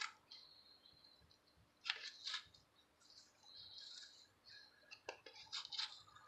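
Faint clicks and scraping of hand tools working a spin-on oil filter apart, with clusters of sharper snaps about two seconds in and again near the end.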